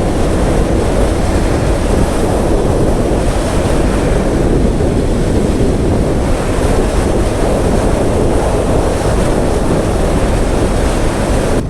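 Steady wind rush on the microphone of a motorcycle riding at highway speed.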